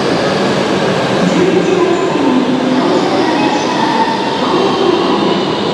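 E5 series Shinkansen high-speed train moving slowly along the platform: a steady rumble with a few wavering tones over it.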